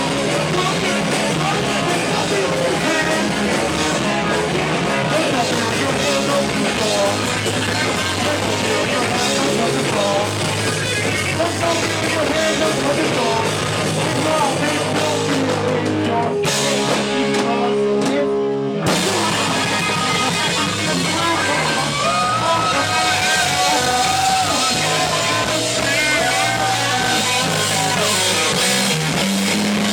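Live punk-rock band playing, with electric guitar, drum kit and singing. About two-thirds of the way in, the cymbals drop out for roughly two seconds, leaving held notes, before the full band comes back in.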